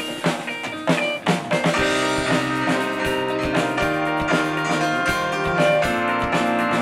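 Live band playing an indie rock song: drum kit, electric guitar and stage keyboard. The drums come in at the start with a few hits, and a steady beat settles in about two seconds in.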